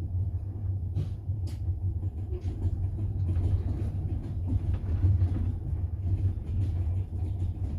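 Moving double-decker passenger train heard from inside the carriage: a steady low rumble of the wheels on the rails, with two sharp clicks about a second in and lighter irregular ticks after.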